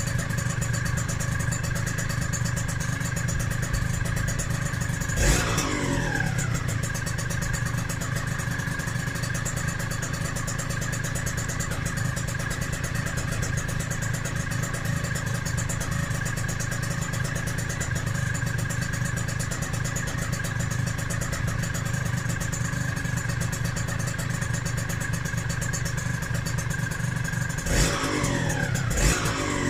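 Freshly rebuilt Yamaha DT125R's single-cylinder two-stroke engine running steadily at idle, with a sharp throttle blip about five seconds in and two more near the end, the revs jumping and falling back each time.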